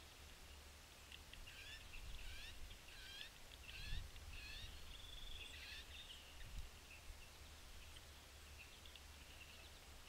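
Faint songbird song: a run of about six whistled notes, each sliding down in pitch, then a short steady whistle about five seconds in. A dull low thump about four seconds in is the loudest sound, with a softer one a little later.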